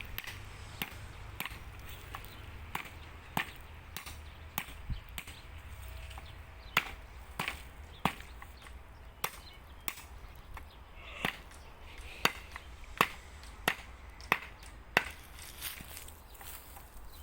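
Chopping with a large knife: sharp, irregular strikes into wood, about one to two a second, getting louder about halfway through.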